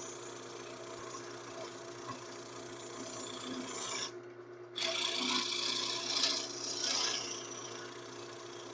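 Wood lathe running with a steady motor hum while a tool scrapes and cuts the spinning wood. The scraping breaks off for a moment about halfway, then comes back louder for a few seconds.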